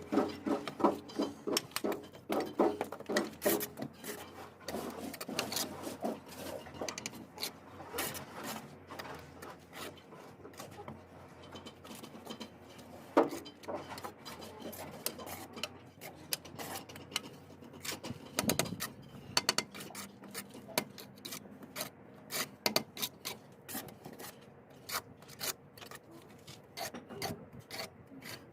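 Irregular scraping and tapping of a bricklayer's trowel on bricks and mortar, busier in the first few seconds, with a couple of sharper knocks later on.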